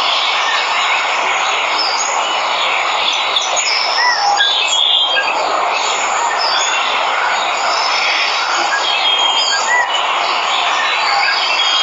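Steady rush of a waterfall, with many birds chirping and whistling over it in short calls.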